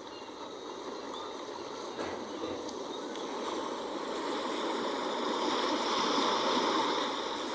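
Sea surf: an even wash of wave noise that fades in at the start, swells to its fullest about six seconds in, then eases slightly.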